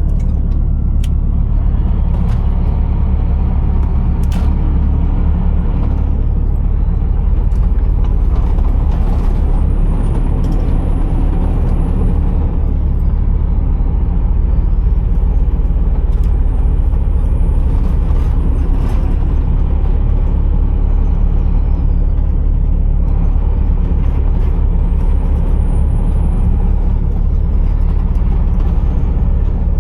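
Scania R480 truck's straight-six diesel engine running with a steady low rumble. A faint high whine rises and falls three times.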